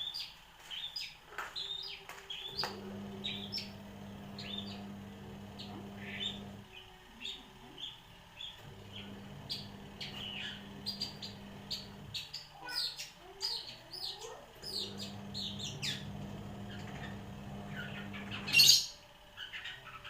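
Long-tailed shrike singing a fast string of short, high chirps and trills that mimic prinia calls and squabbling sparrows, with one loud call near the end.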